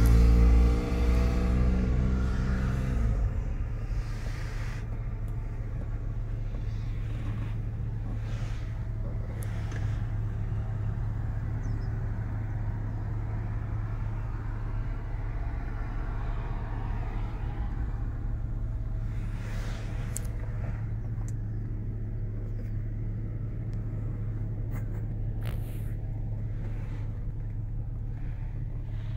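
Toyota FJ Cruiser's 4.0-litre V6 idling, a steady low hum heard inside the cabin. The car radio is turned down and fades out in the first few seconds, and there are a few light clicks later on.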